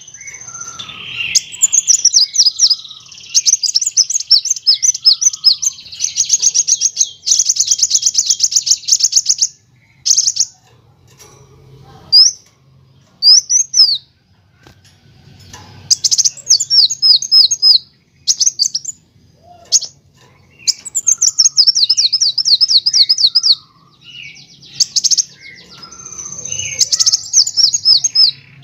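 Kolibri wulung sunbird singing: fast, high-pitched trilling runs of rapid notes broken by short pauses and a few sharp single chips. These are the rattling and rolling phrases that birdkeepers use as training song.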